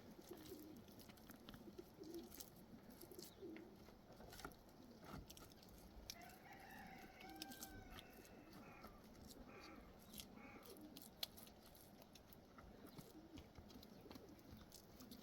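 A rooster crowing faintly once, one long call about six and a half seconds in, followed by a few short clucks; scattered small clicks and knocks otherwise.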